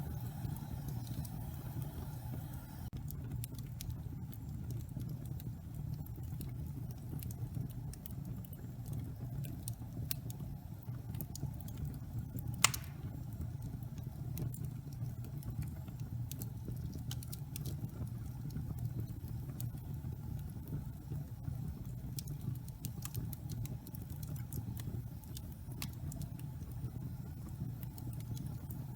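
Logs burning in a fireplace: a steady low roar of the flames with irregular crackles and snaps. About halfway through there is one loud sharp pop.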